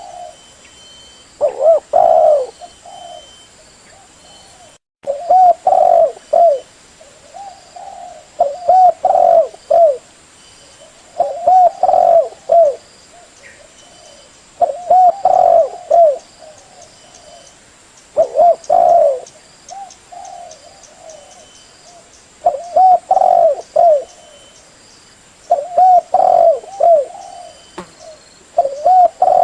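Spotted dove (tekukur) cooing: a phrase of several low coo notes, repeated about every three seconds.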